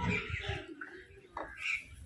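Crows and mynahs squabbling over food: a harsh call at the start, then two shorter calls in the second half, over a low rumble.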